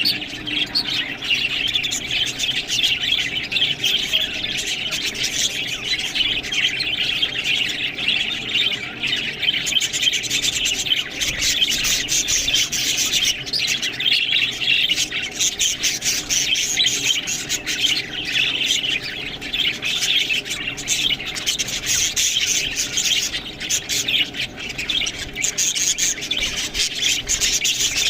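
Many budgerigars chattering together: a dense, unbroken mix of chirps and squawks.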